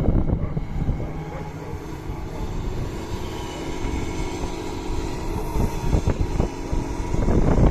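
Doosan DX225 excavator's diesel engine running under hydraulic load, easing off after the start and building up again near the end, with a few knocks.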